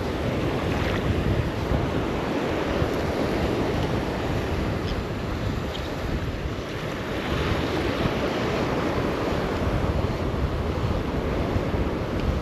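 Gulf surf washing steadily, with wind buffeting the microphone.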